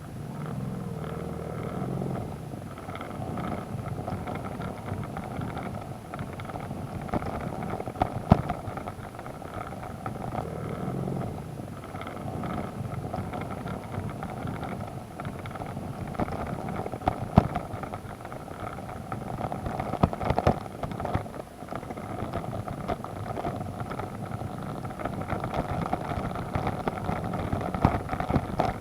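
BMW adventure motorcycle engine running steadily as it rides a muddy dirt road, with rough road noise and a few sharp knocks from the bike jolting over bumps.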